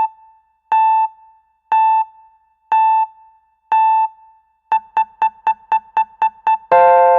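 Electronic intro beeps: a pitched beep about once a second, then a faster run of about four a second, ending in one longer, lower tone, like a countdown sound effect.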